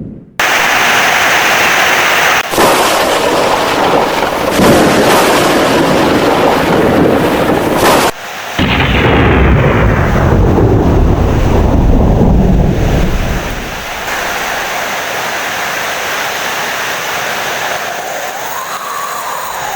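Heavy rain with loud, rolling thunder that cuts out abruptly twice, then eases to steady rain after about fourteen seconds.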